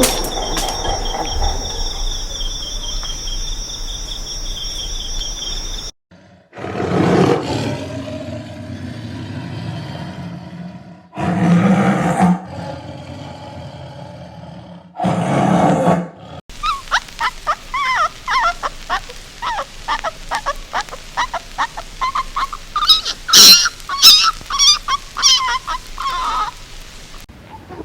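A run of different wild-animal recordings. After a steady sound with high steady tones, there are three loud, deep roars a few seconds apart, then a fast run of short, repeated chattering calls with sharp clicks.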